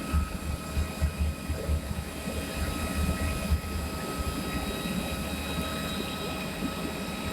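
Aircraft engine noise at an airport: a steady high whine over a low, uneven rumble.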